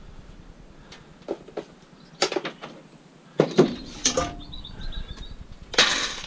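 Scrap metal being handled and sorted: a series of separate knocks and clatters of metal pieces being moved and dropped, the loudest near the end.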